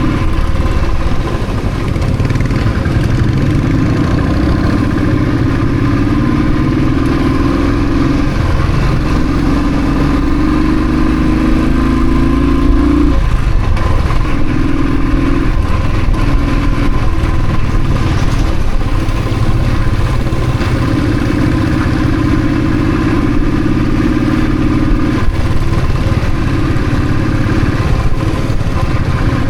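Royal Enfield Thunderbird's single-cylinder engine running under way. Its note rises and drops back several times, as when it is pulled up through the gears.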